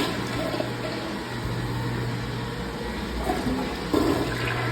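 Toilet flushing: a steady rush of water running through the bowl.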